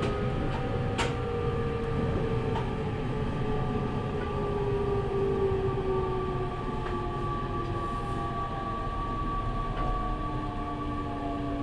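JR East E501 series electric train heard from inside the car, its traction motors and inverter whining in several tones that slowly fall in pitch as it slows, over the rumble of the wheels with a few clicks from the rail.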